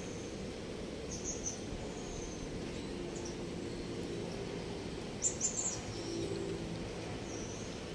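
Outdoor background: a steady low noise bed with a few short, high bird chirps scattered through it, a brief cluster of them about five seconds in.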